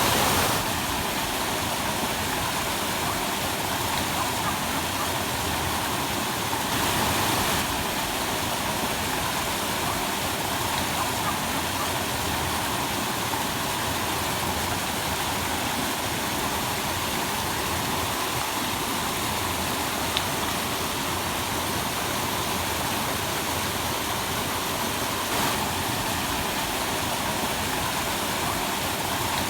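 Waterfall's rushing water: a steady, even rush of noise.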